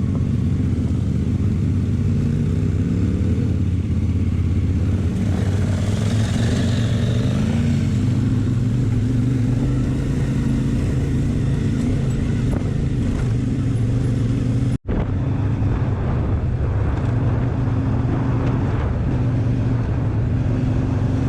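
Motorcycle engine running under load, its pitch rising and falling a little as the rider works the throttle. The sound drops out for an instant about two-thirds of the way through, then the engine carries on.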